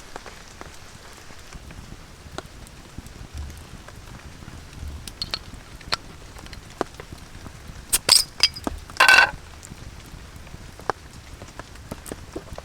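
Rain falling, with scattered drops ticking on a surface. About eight and nine seconds in come two louder sharp sounds, the second a short ringing clink.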